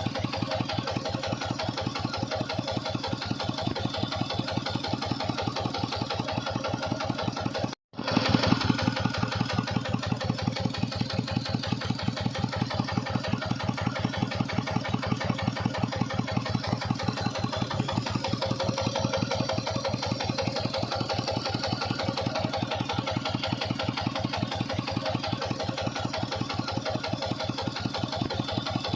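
Tractor engine running steadily with an even chugging beat while it drives a water pump. The sound cuts out for an instant about eight seconds in and comes back slightly louder.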